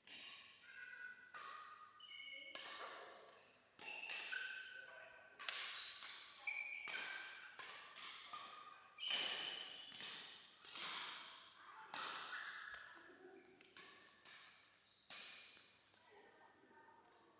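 Badminton rally: rackets striking the shuttlecock in a quick exchange about once a second, each hit echoing, with short squeaks of court shoes in between.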